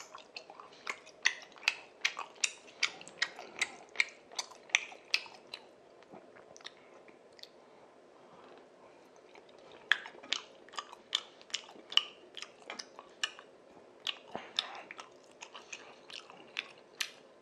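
Close-miked chewing of spicy tteokbokki rice cakes: a run of short clicking mouth sounds, about three a second, that stops for a few seconds in the middle and then starts again.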